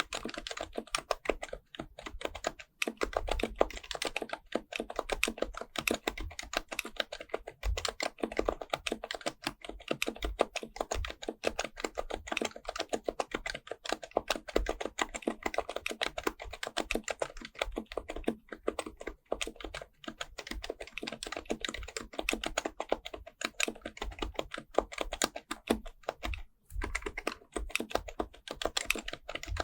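Continuous fast typing on an HHKB Professional Type-S keyboard, whose silenced Topre electrostatic-capacitive switches give soft, muted keystrokes in a dense stream, with a short pause about 26 seconds in.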